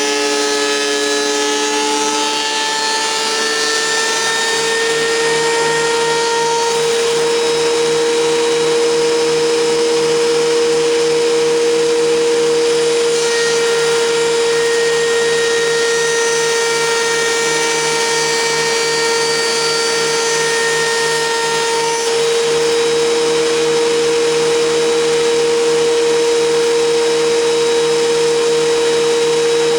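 WEN 6552T 13-inch benchtop thickness planer running with a loud, steady motor whine. The whine rises in pitch over the first several seconds, then holds, with a brief dip about two-thirds of the way through.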